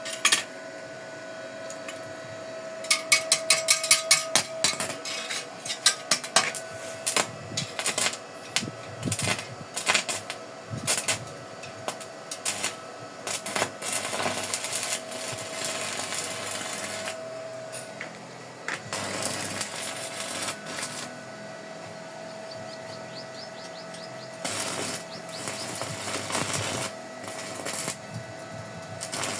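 Arc welding tack welds on a steel pipe joint: the arc crackles and sputters in several bursts of a few seconds each, over a steady whine.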